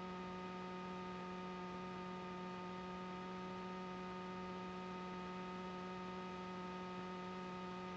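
Faint, steady electrical hum on the aircraft's intercom and radio audio line, holding one even pitch with its overtones.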